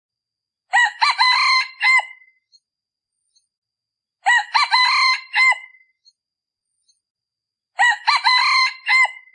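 Male decoy junglefowl crowing three times, about three and a half seconds apart, each crow short and clipped. This is the call used to lure wild junglefowl.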